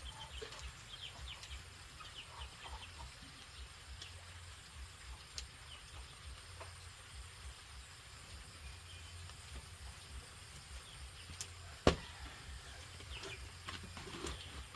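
Chickens clucking faintly in the background, with one sharp knock about twelve seconds in.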